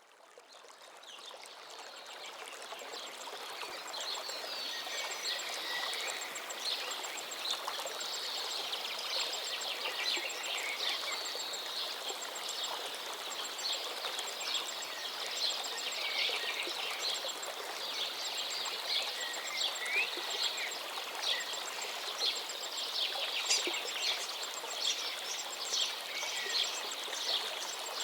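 Running stream with many small birds chirping and trilling over it, fading in over the first few seconds.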